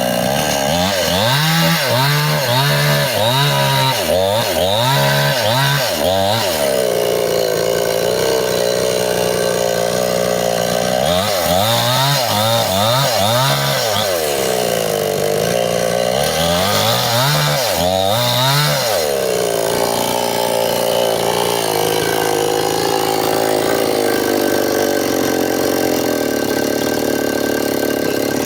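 Two-stroke Stihl chainsaw cutting wood, its engine pitch rising and falling over and over, about one swing a second, in three spells. For the last third it runs at a steadier pitch.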